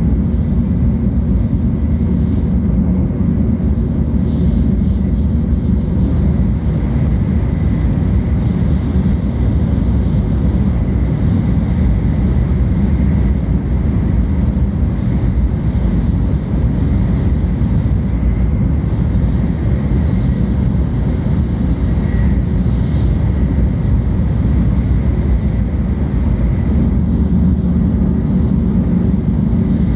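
Steady running noise of a 700 series Shinkansen heard from inside the passenger cabin: a constant low rumble of the train travelling along the track, with faint steady high tones over it.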